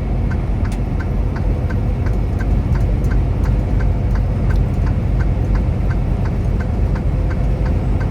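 A car's turn-signal indicator ticking evenly, about three clicks a second, over the steady low rumble of the car driving on the road.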